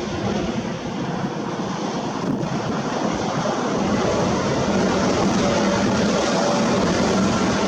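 Heavy construction machinery running: a steady diesel engine drone with a constant hum, growing a little louder about four seconds in.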